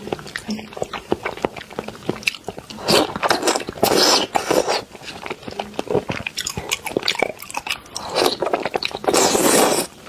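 Close-miked wet chewing and mouth smacking on raw salmon sashimi, a dense run of small clicks with several louder stretches, the longest near the end.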